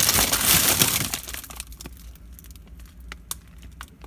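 Plastic bags of frozen vegetables crinkling and rattling as they are handled in a freezer, loud for about the first second, then only scattered light clicks and taps.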